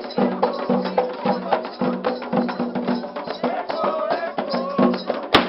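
Candomblé ritual music: dense Afro-Brazilian hand percussion with a repeating bell-like pattern and voices singing. A single sharp crack, like a firecracker, sounds near the end.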